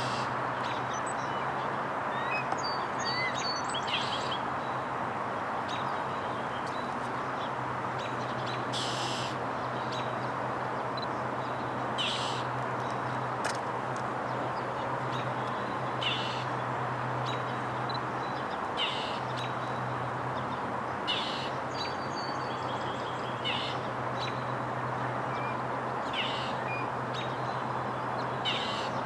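A bird giving short, harsh, raspy calls, repeated about every two to four seconds, over a steady background of distant city noise with a low hum.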